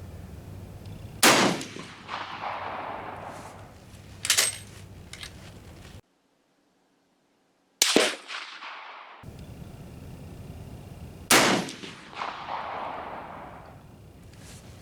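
High-power rifle shots fired one at a time: three loud reports, each trailed by an echo that rolls off over about a second and a half, with a lighter sharp crack in between.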